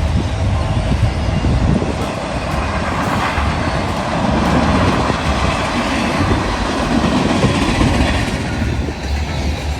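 A train rolling past, its steel wheels running over the rails with a steady clatter.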